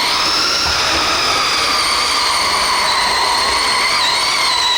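Radio-controlled pulling vehicle's drivetrain whining at high pitch under load during a pull. The pitch eases down slightly and wavers briefly about four seconds in.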